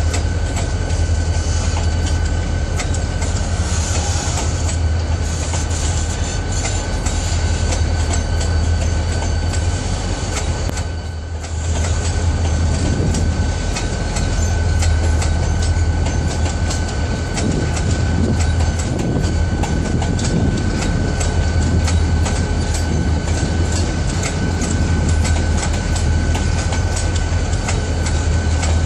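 Loaded freight wagons, boxcars and grain hoppers, rolling steadily past with a continuous rumble and wheels clicking over the rail joints. A thin, steady high ring runs over it, and the noise dips briefly about eleven seconds in.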